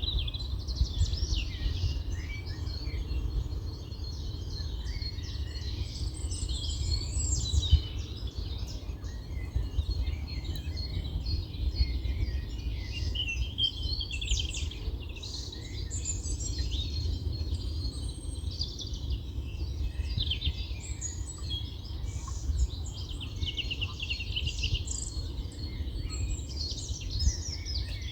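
Several small songbirds singing and chirping at once, a continuous overlapping chorus of short high trills and calls, over a steady low rumble.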